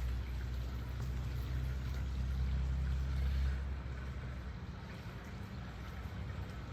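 A low engine drone, steady for a few seconds, that fades off a little past halfway through.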